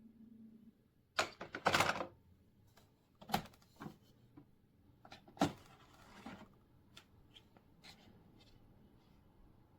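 A series of irregular clicks and knocks, about a dozen spread over several seconds, with brief scraping rustles after a couple of the louder ones, like small hard objects being handled and set down.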